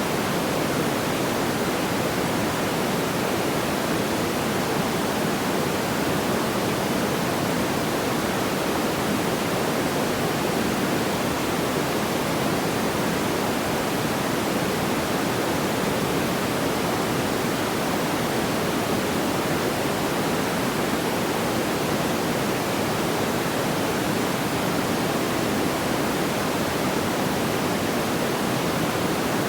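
Steady, even rushing noise like pink noise, heaviest in the low-middle range, with no crackles or pops.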